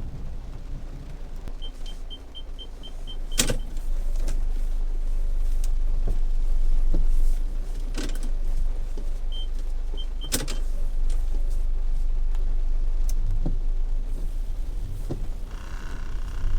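Old Honda Accord reversing, heard from inside the cabin: a steady low rumble of the moving car, with the reversing radar beeping in a quick run of short high beeps, about four a second, a couple of seconds in and three more around ten seconds in. A few sharp knocks come between them.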